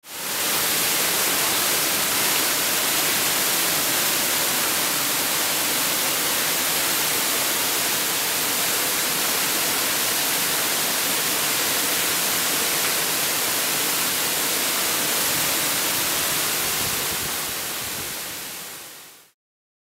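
Waterfall pouring heavily, swollen by a week of rain: a steady rushing hiss of falling water that fades in at the start and fades out near the end.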